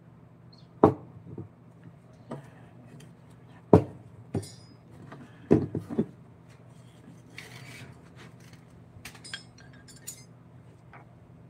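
Hard objects knocking and clinking at irregular intervals, like hand tools being picked up and set down on a workbench, with a brief scrape about two-thirds of the way through. A low steady hum runs underneath.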